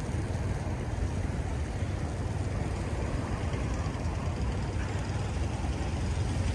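Steady low rumble and hiss of a city street in a snowstorm: passing traffic and wind.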